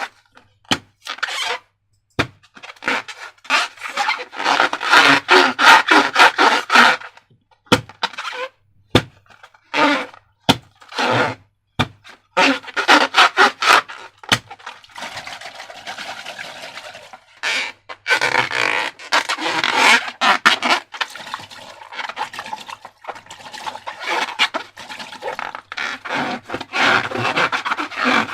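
Slime being worked by hand with transparent balloons: sticky, squelching and scraping strokes with sharp clicks, coming in irregular bursts, with a few longer hissing stretches midway.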